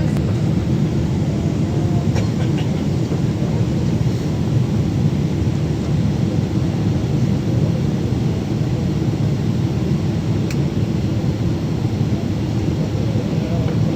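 Steady low rumble of a Boeing 777-300ER jet airliner and its GE90 engines, even and unchanging throughout.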